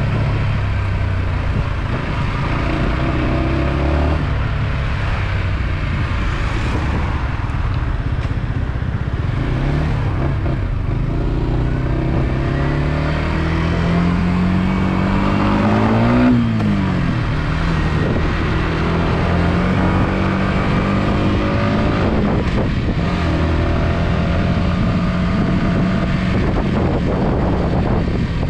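Yamaha XSR125's single-cylinder four-stroke engine running under way. Its note climbs steadily for several seconds up to a peak about sixteen seconds in, drops sharply, then holds level.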